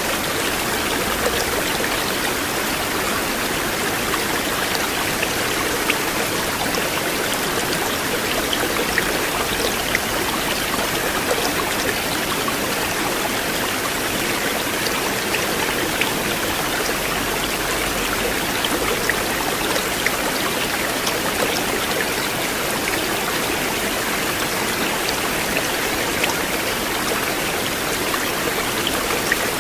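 River water flowing steadily: an even rush with small splashes and drips scattered through it.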